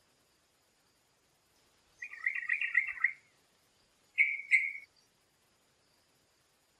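A songbird calling: a quick jumbled run of chirps about two seconds in, then a pair of short, clear notes a little after four seconds.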